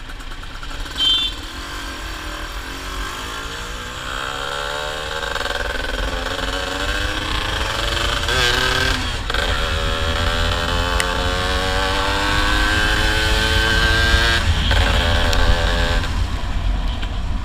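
Yamaha F1ZR's 110 cc two-stroke single-cylinder engine pulling under way, its revs climbing steadily through a gear, dipping briefly about nine seconds in at a gear change, then climbing again before easing off near the end. A steady low rumble runs underneath, and a short high chirp sounds about a second in.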